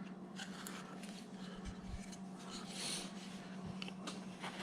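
Faint scraping and light clicks of a small upsweep skew chisel shaving wood as a carved figure's leg is rounded, with one longer cut about three seconds in, over a steady low hum.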